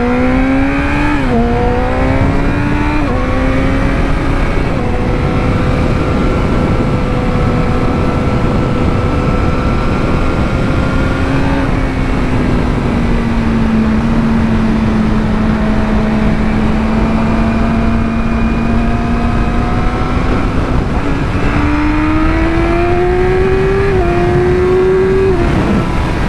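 Yamaha R6 sportbike's inline-four engine heard from the rider's seat: it pulls up through the revs with two quick gear changes, holds a steady cruise, then accelerates again with a gear change near the end. Steady wind rush on the helmet microphone runs under it.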